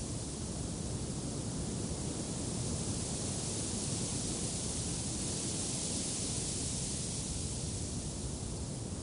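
Steady rush of wind, swelling a little about halfway through.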